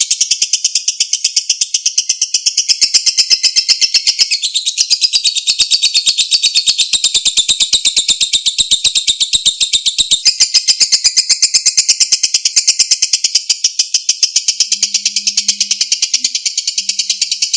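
Lovebird singing a long, unbroken ngekek: a rapid, evenly pulsed, high chattering trill that runs on without pause.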